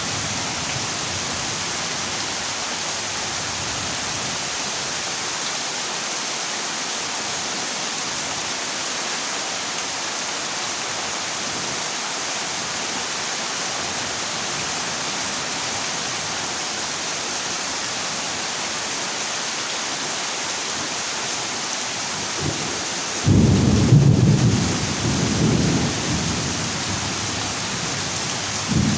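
Heavy rain falling steadily on a corrugated zinc roof as an even hiss. About three-quarters of the way through, a loud rumble of thunder breaks in and fades over a few seconds.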